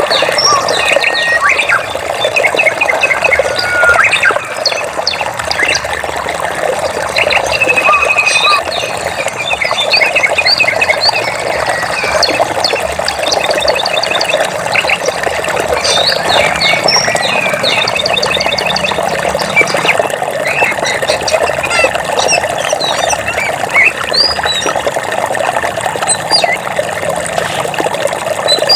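Birds chirping and trilling in many short calls over a steady rush of running water.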